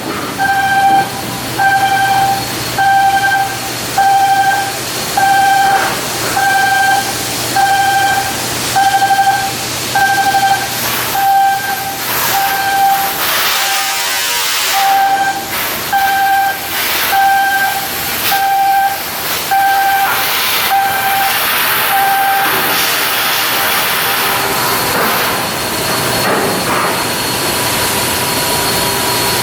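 Electronic warning beeper sounding a pulsed tone about once a second over hissing industrial machinery noise. The beeping stops about 22 seconds in, leaving the steady hiss.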